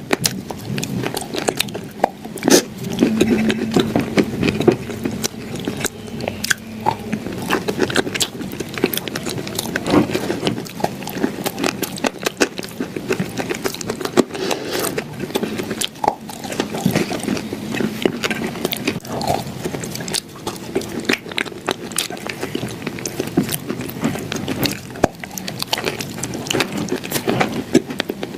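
Close-miked biting and crunchy chewing of clay shortbread cookies, a dense run of crisp crackles throughout.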